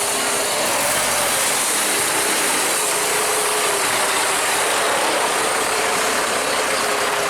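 Heavy truck's engine and drivetrain running: a steady, noisy mechanical rattle with a steady whine held at one pitch.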